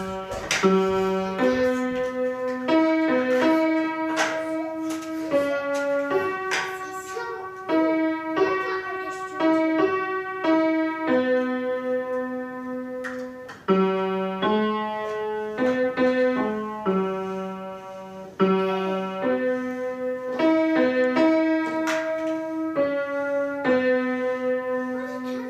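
Piano played by a beginner: a slow, simple tune of held melody notes over chords.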